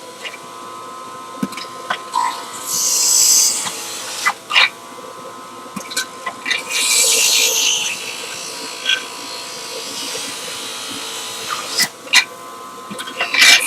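Acme centrifugal juicer running with a steady motor whine, with bursts of grinding as fruit and vegetables are pushed into the spinning basket and shredded, and several sharp knocks.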